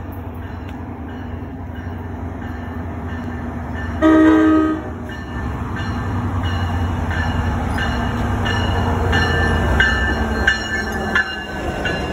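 A passenger train approaches and runs past at close range, its rumble growing steadily. About four seconds in, the horn gives one short blast. The cars then pass with an even, repeating clicking of wheels over the rail and a thin high squeal.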